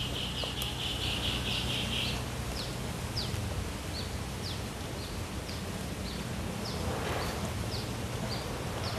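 Birdsong: a bird repeats a short, high, falling chirp about twice a second over a steady background hiss. A continuous high trill sounds along with it for the first two seconds.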